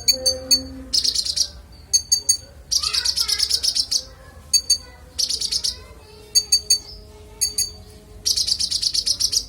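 Konin songbird singing: rapid high chattering trills alternating with dense buzzy phrases, the mimicked notes of its song repertoire, in bursts every second or two.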